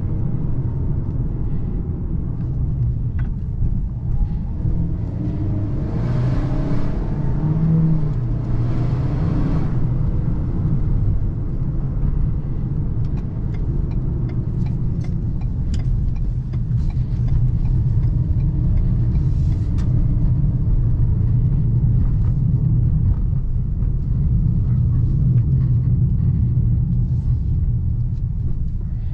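Ford Maverick Lariat FX4's 2.0-litre turbocharged EcoBoost four-cylinder running while the truck drives, with a steady low rumble of engine and road noise. The engine note shifts during the first ten seconds, and there are two brief rushes of hiss around six and nine seconds in.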